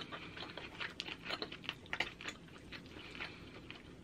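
Close-miked eating sounds: soft, irregular wet mouth clicks and smacks of someone chewing fettuccine alfredo, with a fork picking at the noodles.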